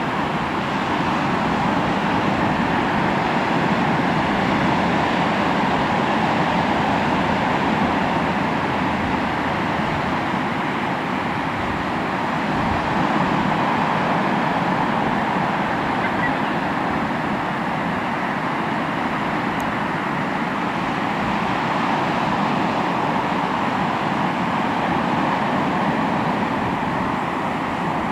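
Sea waves breaking and washing onto the shore: continuous surf noise that swells and eases slowly every several seconds.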